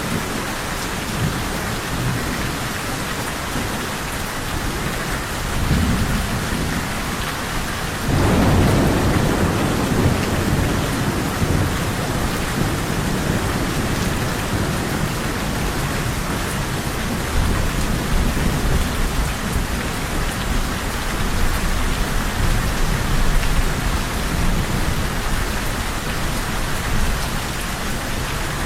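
Steady heavy rain with rolling thunder: a low rumble builds, then a loud crack of thunder hits about eight seconds in and rumbles on, with further low rolls later under the rain.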